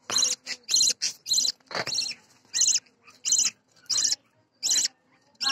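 Budgerigar chicks calling: short, rasping, high-pitched calls repeated about once or twice a second, spacing out toward the end.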